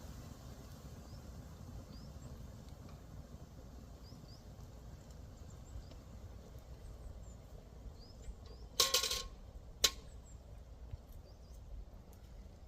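A brief clatter with a ringing, metallic edge about nine seconds in, then a single sharp click a second later, over a low steady outdoor rumble with faint high chirps.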